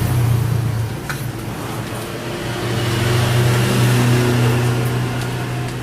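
Small generator engine running steadily with a low drone, getting slightly louder partway through.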